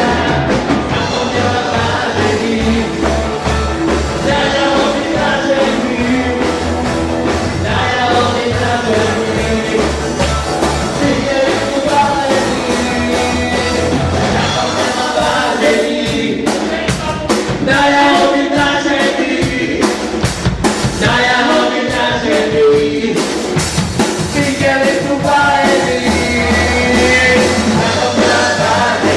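Rock band playing live, with a lead singer over the full band.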